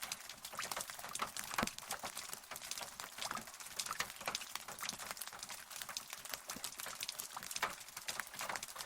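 Rain falling steadily, with many separate close drops pattering and ticking on a surface.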